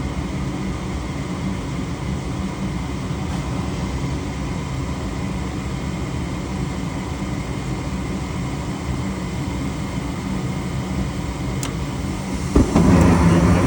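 Furnace running after being jumpered at its control, bypassing the thermostat: a steady mechanical hum. Near the end there is a click, and then the sound becomes suddenly louder.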